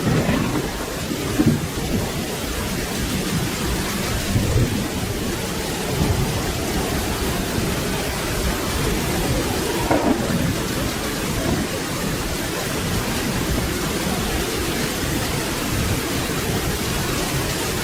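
Steady rain with thunder rumbling low underneath, swelling briefly a few times.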